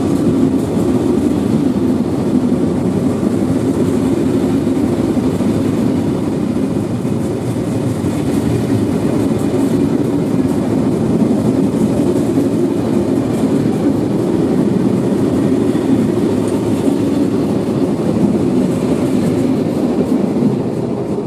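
SNCF Corail passenger coaches rolling past at close range, a steady loud rumble of steel wheels on rail.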